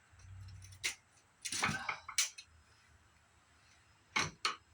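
Handling noise from taking apart an old CRT monitor: a low rumble at first, then sharp clicks and a few short scraping strokes of plastic and metal parts, with two more clicks near the end.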